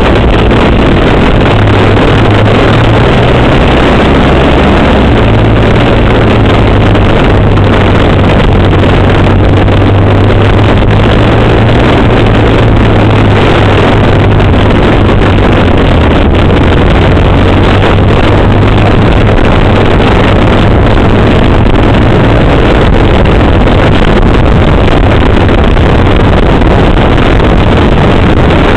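BMW R1200GS boxer-twin engine running under way on a dirt road, loud, with heavy wind and road noise on a handlebar-mounted microphone. The engine note steps up and down a few times as the rider changes speed.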